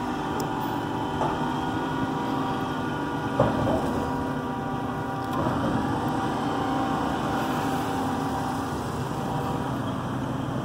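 A large engine running steadily at a constant speed, with a single sharp knock about three and a half seconds in.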